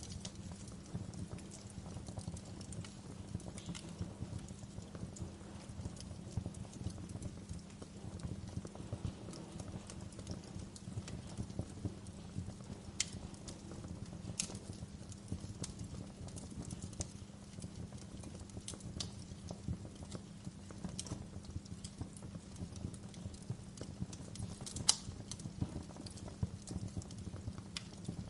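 Wood fire crackling in a fireplace: a dense run of soft, rapid low crackles with a few sharp pops, the loudest a little before the end, over a faint steady low hum.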